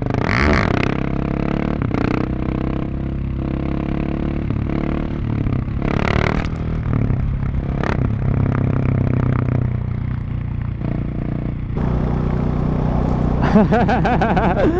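Husqvarna 701 supermoto's single-cylinder engine running through its exhaust, mostly steady with a few brief changes in revs.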